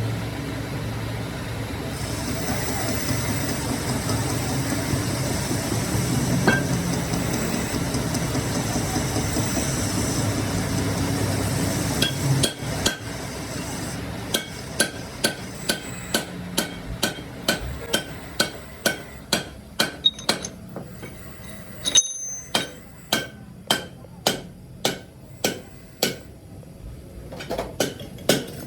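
A machine runs steadily for about the first twelve seconds. Then a hammer strikes metal again and again at an even pace, about one and a half blows a second, each blow ringing briefly.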